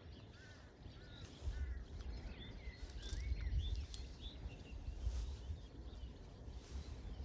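Small birds chirping in short, repeated notes, over a low rumbling noise that comes in about a second and a half in.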